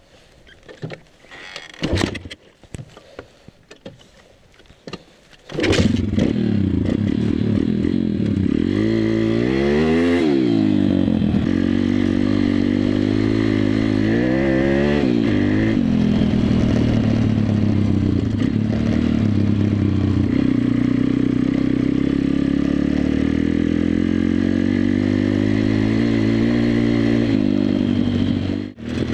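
A few clicks and knocks, then about five seconds in the WPB 140 pitbike's single-cylinder four-stroke engine comes in loud. It rises and falls in revs twice, about nine and fifteen seconds in, then runs steadily, dropping briefly just before the end.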